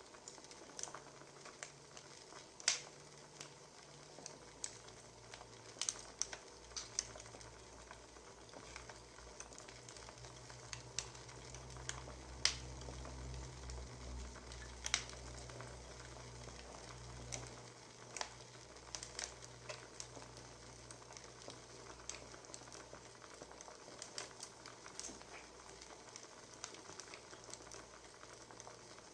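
Wood fire crackling, with irregular sharp pops and snaps over a faint steady hiss. A low hum rises and fades in the middle.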